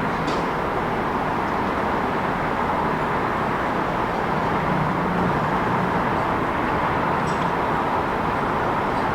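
Steady city traffic noise: a continuous wash of passing vehicles with a low engine hum that swells briefly midway, and a few faint sharp clicks.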